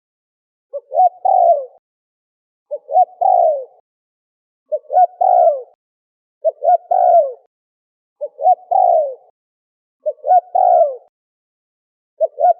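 Spotted dove (terkukur) cooing, seven times, about once every two seconds. Each call is two short coos followed by a longer falling coo.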